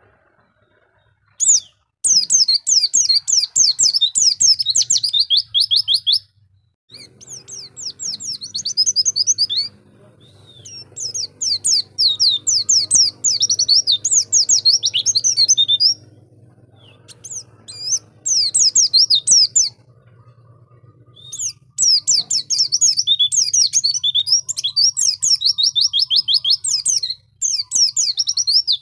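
White-eye (pleci) singing: fast, high twittering song in bursts of several seconds, broken by short pauses.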